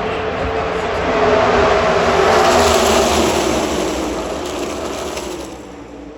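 A pack of NASCAR Cup Series cars with V8 engines passing at full speed. The engine sound swells about a second in, peaks, then fades away over the last couple of seconds as the pack goes by.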